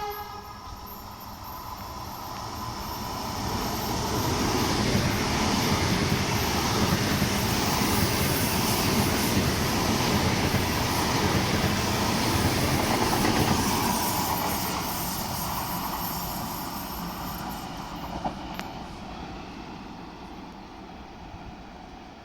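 RE 6 regional train passing: its rolling noise builds over a few seconds, stays loud for about ten seconds, then fades away.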